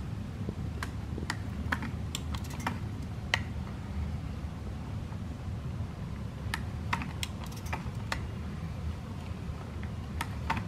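Irregular light clicks and ticks from a hand-cranked cutaway engine model as its crank, gears, camshaft and valve lifters turn, over a steady low hum.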